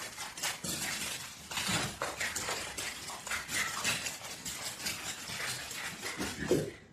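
Rapid, irregular clattering and clinking of small hard objects, like dishes or cutlery being knocked about.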